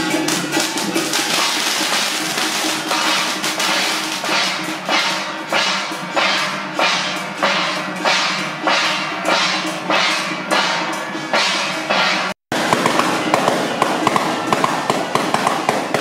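Drums and other percussion of a temple procession band beating a steady rhythm, about two strokes a second. After a brief dropout about twelve seconds in, the beat goes faster and denser.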